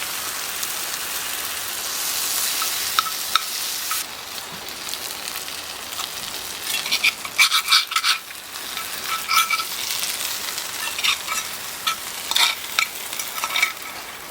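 Food sizzling in a hot pan with a steady hiss. From about halfway in, a utensil stirs and scrapes against the pan, making a run of sharp clicks.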